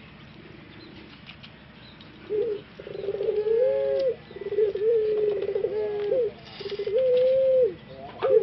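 Puter pelung dove cock giving its long anggungan coo. After about two quiet seconds come four rolling coos at a steady low pitch, each held up to about two seconds, and a sharp click near the end.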